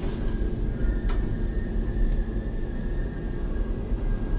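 Railway station ambience: a steady low rumble with a thin, steady high whine, and two short clicks about one and two seconds in.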